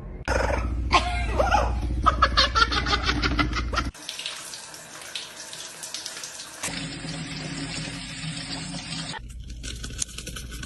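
Running water, like a tap into a sink, in several abruptly cut pieces, with a bird's squawks and chirps over it in the first few seconds.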